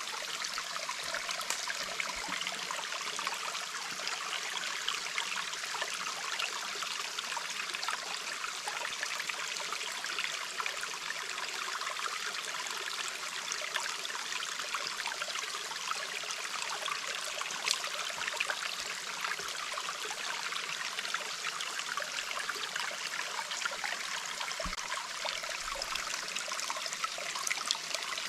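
Small stream of water flowing and trickling, a steady even rush.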